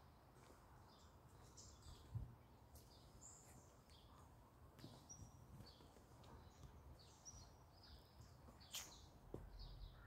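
Small birds chirping faintly, short high calls scattered throughout, over a low steady background rumble. A brief low thump about two seconds in and a sharp click near the end.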